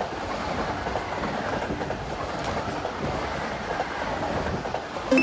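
A Eurostar e320 (Siemens Velaro) high-speed train rolling past on its track, making a steady rush of wheels on rail and running noise.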